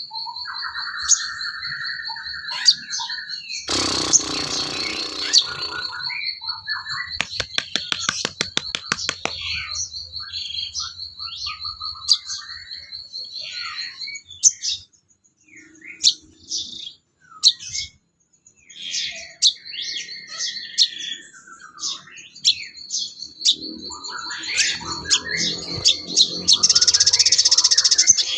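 Songbirds chirping and calling in quick succession, over a high, pulsing trill that runs through most of it; a harsh rattling burst comes about four seconds in, and another near the end.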